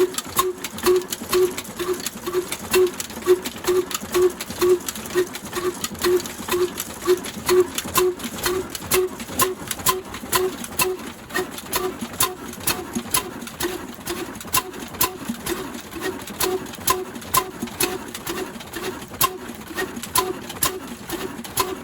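Old black diesel engine driving a flour mill, running steadily with a regular beat of about three to four pulses a second. Sharp, irregular clicks and ticks sound over the beat.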